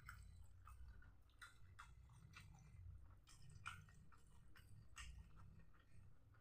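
A person chewing smashed fried tempeh with sambal, heard as faint, irregular wet mouth clicks, about two or three a second.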